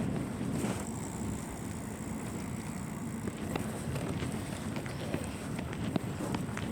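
Bicycle riding along a street: steady low wind and road rumble on the camera's microphone, with scattered light clicks and rattles.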